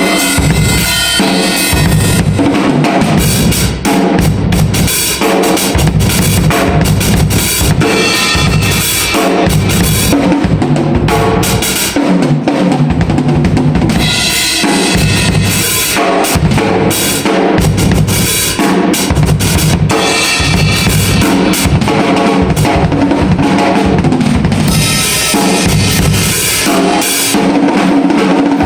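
Drum kit being played continuously, with bass drum, snare and cymbal hits in a steady groove.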